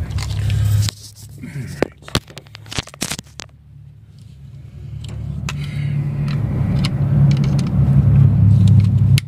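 Sharp clicks and scrapes from handling a new 50 amp circuit breaker over a steady low drone. The drone drops away about a second in and swells back up from about five seconds.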